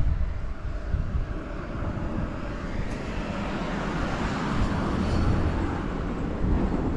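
Kawasaki ZRX400 inline-four engine running through a Moriwaki ZERO titanium full exhaust, a continuous rumble that swells in the middle. The bike is listed with a damaged governor and its ignition timing out, though with no abnormal engine noise.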